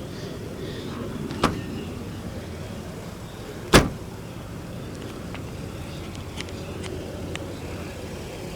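Two thumps about two seconds apart over a steady low background noise: a lighter knock, then a much louder slam that fits a car trunk lid being shut.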